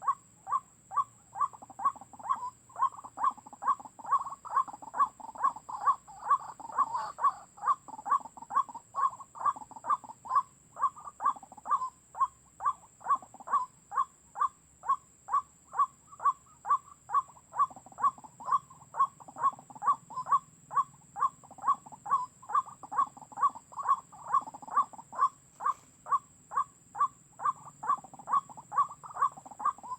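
White-breasted waterhen (ruak-ruak) lure call, played as a bird-trapping lure, repeating in an even, unbroken rhythm of about two to three short calls a second.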